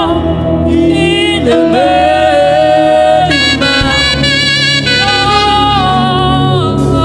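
Live gospel band music: a saxophone plays long held melody notes that slide between pitches, over the band's steady accompaniment.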